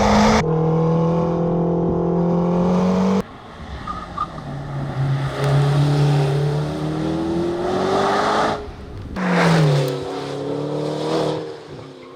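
Supercar engine and exhaust running hard in several abruptly cut clips: a loud steady high-revving note, then a quieter stretch with pitch climbing as the car accelerates, then a loud burst with falling pitch that fades away.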